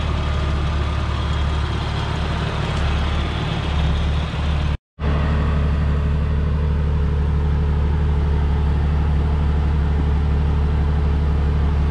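Jeep Cherokee XJ engine idling steadily. The sound drops out for a moment about five seconds in, then the even idle carries on.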